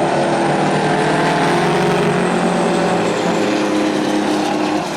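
Several racing semi trucks' diesel engines running hard together, their notes overlapping and shifting slightly in pitch.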